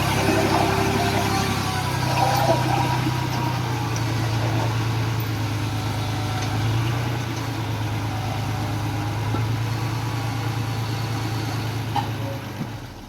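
Heavy diesel engine of earthmoving machinery running steadily, its sound dropping away near the end.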